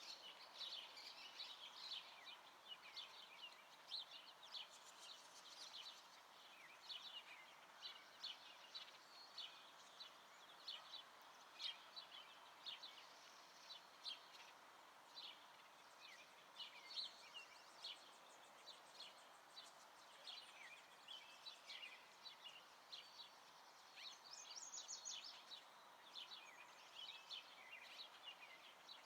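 Many small songbirds chirping and singing: a continuous stream of short, high calls over a faint steady background hiss.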